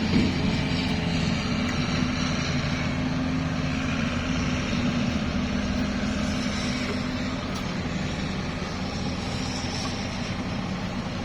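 A vehicle engine idling steadily, with a low, even hum that fades a little toward the end. A brief knock sounds right at the start.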